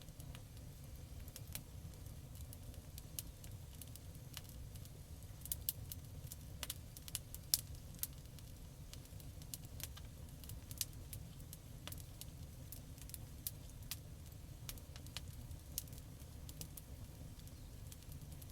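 Campfire crackling: irregular sharp pops and snaps over a steady low rumble of the burning fire, thickest about halfway through.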